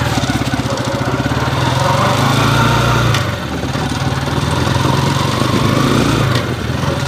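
Honda TMX155 single-cylinder four-stroke engine running as the motorcycle is ridden in gear, revving up about two seconds in, easing off just after three seconds, then running steady again. It carries a drone in first and third gear that the mechanic says is perhaps from a worn countershaft pilot bearing.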